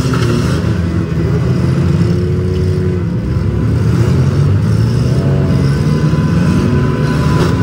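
Demolition derby cars' engines running and revving together in a loud, continuous din, with pitch rising and falling as drivers throttle.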